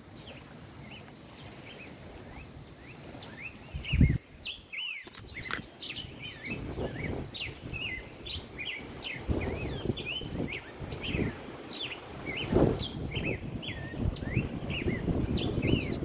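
Small birds chirping over and over in short, quick calls, with wind buffeting the microphone in gusts, loudest about four seconds in.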